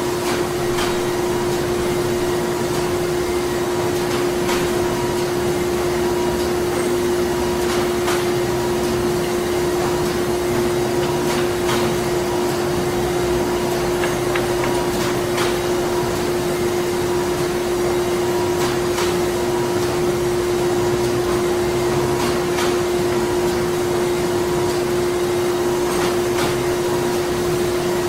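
Printing-plant machinery running: a steady hum with one strong constant drone and a few faint clicks now and then.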